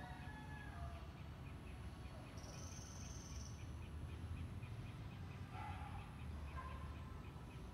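Faint bird calls over a low steady rumble, with a fast, even run of small chirps about five a second through most of it and a short call about three-quarters of the way through.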